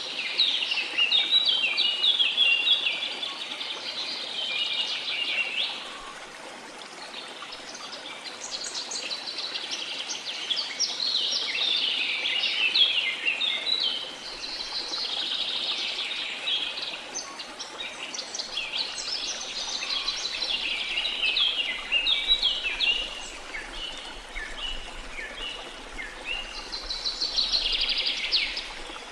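Small songbirds chirping and singing in a string of quick phrases, each a few seconds long, over a steady wash of sea noise.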